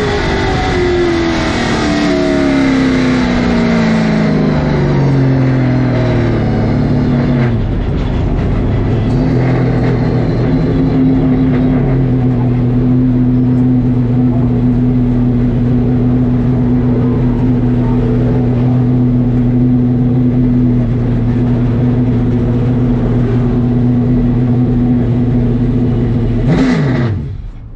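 Late model stock car's V8 engine coming off the throttle, its pitch falling steadily, then rising briefly before settling into a low, steady running speed. The sound cuts off abruptly near the end.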